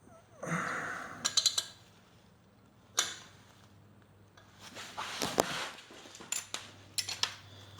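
Handling noise from metal tools and hardware being picked up and set down: scattered clinks, a sharp knock about three seconds in, and brief scraping or rustling twice, over a faint steady hum.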